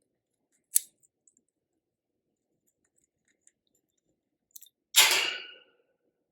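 A sun conure chewing and biting on wooden sticks: a sharp click about a second in, a few faint ticks, then a loud crunch near the end that fades within a second.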